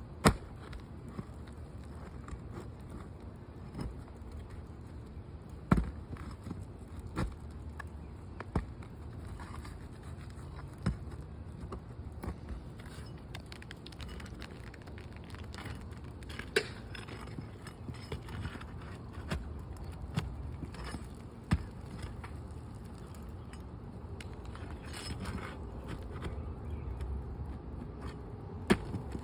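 Scattered sharp knocks, taps and scrapes of hand tools working loose an asphalt roof shingle, about eight distinct hits spread over the time, over a low steady rumble.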